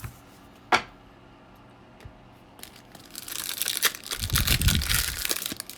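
A trading-card pack wrapper being torn open and crinkled, a dense crackling that runs for the last couple of seconds, after a single click about a second in.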